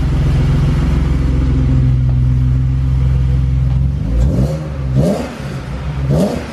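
BMW E36 328i's straight-six engine running through its freshly fitted exhaust: idling steadily, then revved in three quick throttle blips, about one a second, starting about four seconds in.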